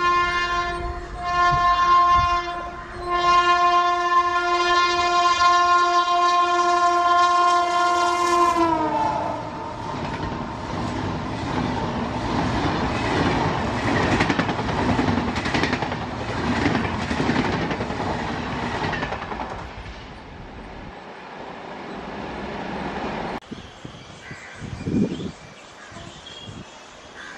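A WAP-7 electric locomotive's horn sounds in blasts, the last one long, and its pitch drops as the locomotive passes at speed. The double-decker coaches then rush by with a rumble and wheel clatter that slowly fades.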